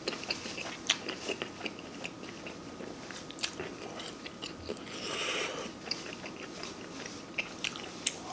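A person chewing food close to the microphone: scattered small wet clicks and smacks of the mouth, with a brief hiss about five seconds in.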